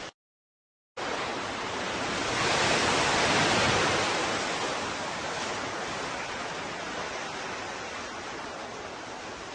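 Ocean surf: the sound drops out completely for about a second at the start, then comes back as a steady wash that swells into one breaking wave a couple of seconds later and slowly recedes.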